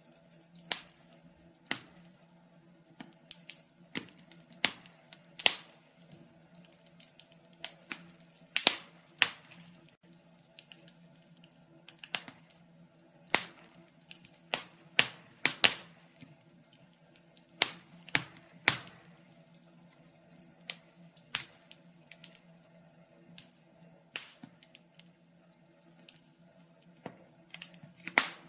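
Wood fire crackling in a fireplace: irregular sharp pops and snaps, one or two a second and sometimes in quick clusters, over a faint steady hum.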